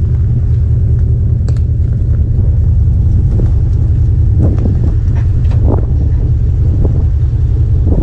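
Steady low rumble of a vehicle driving, with a few faint knocks about halfway through.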